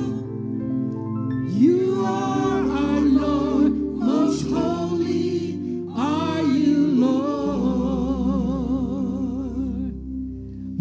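Gospel music: singers holding long wavering notes over a steady instrumental backing.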